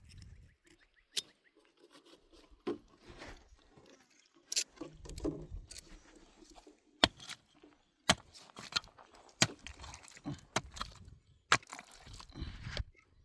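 A series of sharp, irregular knocks and clicks, about a dozen, some louder than others.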